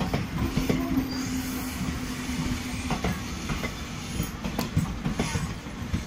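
Devagiri Express passenger coaches rolling past as the train arrives, their wheels clicking over the rail joints. A steady low tone sounds over the rumble through the first half.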